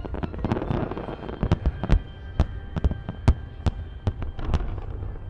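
Aerial fireworks bursting in quick, irregular succession: a dozen or more sharp bangs, the loudest about two and three and a quarter seconds in, over a steady low rumble, with a stretch of crackle near the start.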